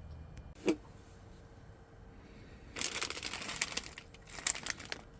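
Plastic food packaging being crinkled and handled, in two crackly spells, after a single light knock about a second in.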